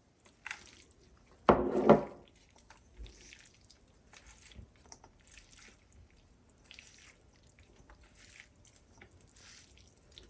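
Pasta being mixed in a pan, a string of soft, wet squishing and scraping noises about once a second. A short, louder rasp comes about a second and a half in.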